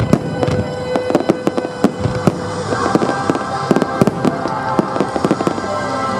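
Fireworks going off in rapid succession: a dense run of sharp bangs and crackles, with music playing underneath that grows more prominent about halfway through.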